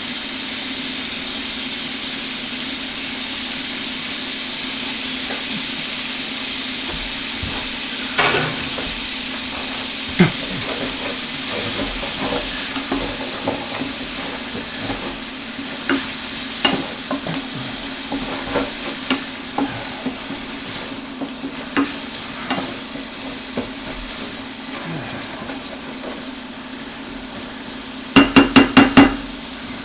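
Onions sizzling in a hot frying pan, slowly getting quieter, while a utensil stirring them clicks against the pan now and then. Near the end comes a quick run of about five sharp taps. A steady low hum runs underneath.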